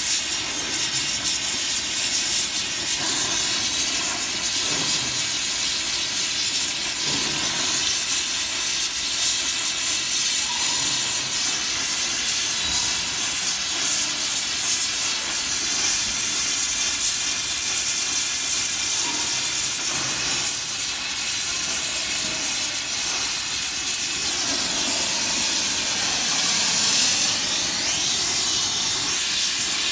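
Welding torch hissing steadily while header and riser tubes of a flat-plate solar collector are joined by hand.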